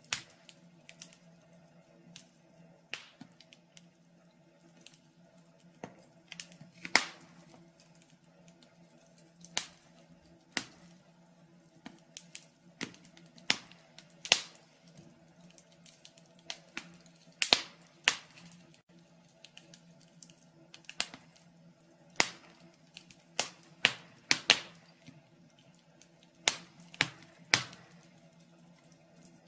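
Wood fire burning in a fireplace, crackling with irregular sharp pops and snaps of varying loudness, over a faint steady low hum.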